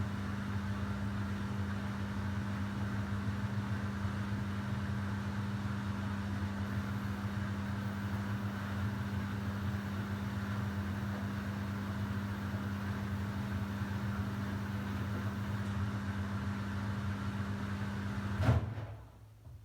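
Samsung WW90J5475FX digital inverter washing machine spinning, a steady hum with a low drone. Near the end there is a knock and the sound falls away abruptly.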